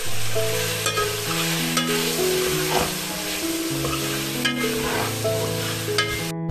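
Food sizzling as it fries in a hot pan, with a few short scraping strokes as it is stirred. The sizzle cuts off abruptly near the end. Soft piano music plays throughout.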